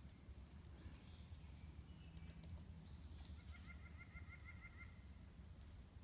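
Faint wild bird calls: two short high chirps, then a quick trill of about eight notes lasting a second and a half, over a low background hum.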